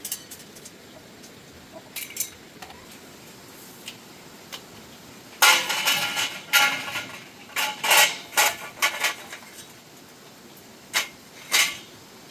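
Metal pieces clanking as they are handled and set down: a few light clicks, then a run of loud clanks starting a few seconds in, the first with a brief metallic ring, and two more clanks near the end.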